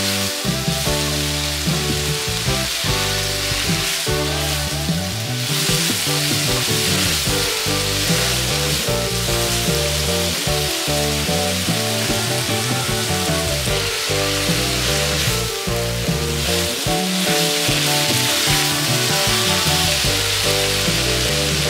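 Meat and scallions sizzling in a hot wok as they are stir-fried with a wooden spatula, the sizzle swelling at times, over background music.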